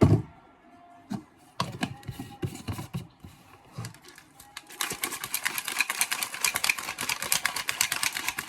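A few separate knocks and clinks, then from about five seconds in a fast, dense rattling clatter of many clicks a second as a protein shake is mixed.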